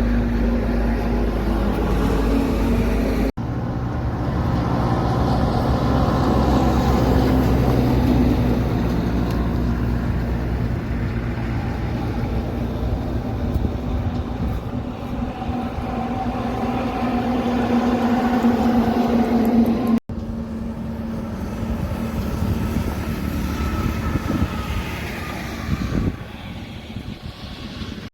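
Truck engines running, in three stretches joined by sudden cuts about three seconds in and about twenty seconds in.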